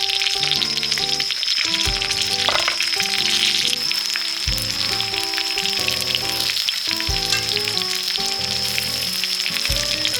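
Food sizzling and crackling in oil on a hot griddle pan, over background music with a slow bass pulse.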